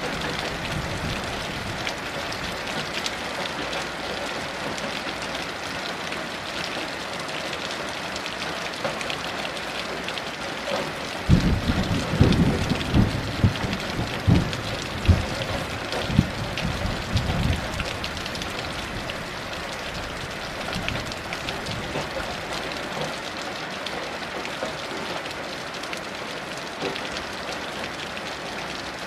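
Steady heavy rain. About a third of the way in, thunder breaks suddenly and rolls in a series of low rumbles for about seven seconds before dying back under the rain.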